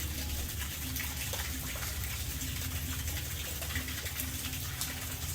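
Steady running and splashing water, with many small drips and splashes over a low rumble.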